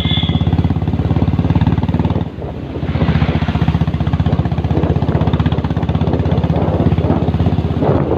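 Motorcycle engine running with a rapid, even firing beat, heard from on the bike; it drops off briefly about two seconds in, then picks up again.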